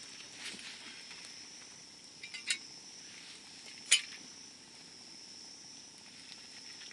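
Wood campfire burning with soft crackling, and two sharp pops from the burning wood about two and a half and four seconds in.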